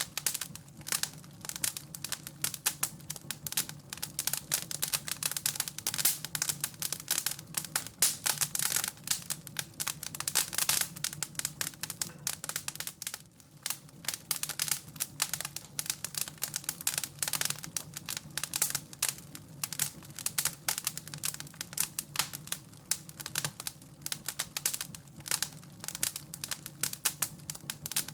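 Wood fire crackling, with dense, irregular snaps and pops over a low steady rumble, and a brief lull about halfway through.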